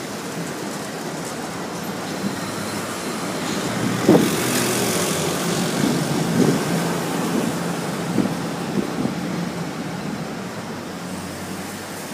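Thunderstorm: rain and wind noise with thunder that breaks about four seconds in and rumbles on for several seconds before fading.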